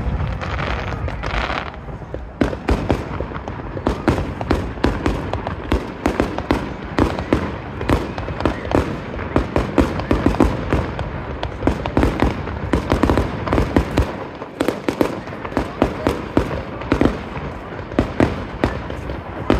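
Aerial fireworks bursting in a rapid, irregular string of bangs and crackles, several a second.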